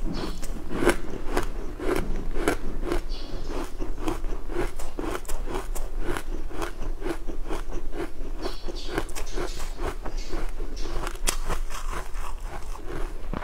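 Close-miked chewing of a crunchy food: steady crisp crunches about twice a second.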